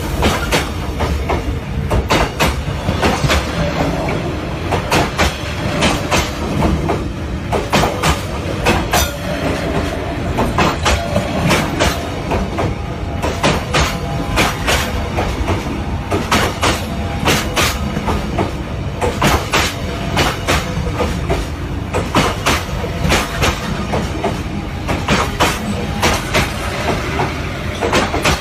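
Passenger train running on rails, heard from on board: a steady rumble with clickety-clack of the wheels over the rail joints, the clicks coming in groups every second or two.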